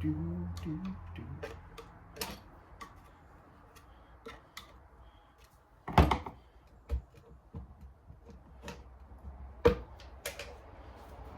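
Scattered metallic clicks and knocks of hand tools on a Suzuki LTR 450 engine's stator cover as it is worked loose, the magnet holding it on. Two louder knocks come about six and nearly ten seconds in.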